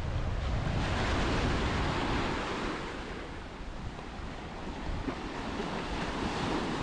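Ocean surf washing onto the beach, with wind rumbling on the microphone. The wash swells about a second in, eases off around the middle and builds again near the end.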